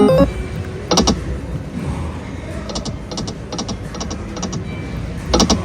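Konami K-Pow Pig video slot machine spinning: a few sharp clicks, then a run of quick, high-pitched ticks as the reels play out, over steady casino background noise.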